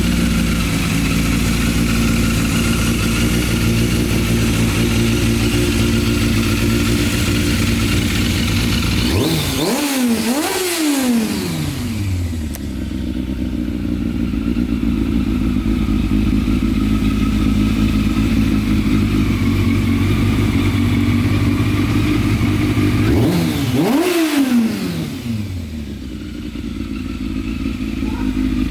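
Yamaha FZS600 Fazer's 600 cc inline-four engine idling steadily, revved twice with the throttle blipped: the pitch climbs quickly and falls back to idle, about ten seconds in and again near the end.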